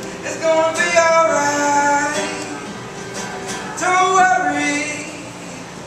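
Man singing a reggae song live, two sung phrases with long held notes over steady accompaniment.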